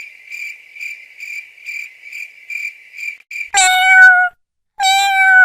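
Cricket-like chirping, about two chirps a second, that stops after three seconds. Then two long, loud cat meows follow, each holding a steady pitch that sags slightly at the end.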